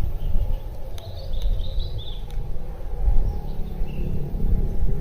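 Outdoor hillside ambience: a low, gusty rumble of wind on the microphone, with a few short bird chirps about a second in and again near the end.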